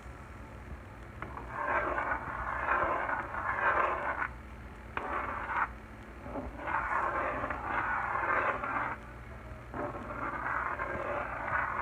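Cooking sounds from a pot of simmering Marsala wine sauce as chicken pieces are put into it and moved around: four bursts of scraping and sizzling, each a second or two long.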